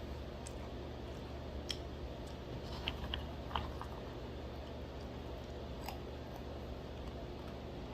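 Scattered sharp clicks and crunches from eating dry roasted almonds, five or so in all, over a steady low hum.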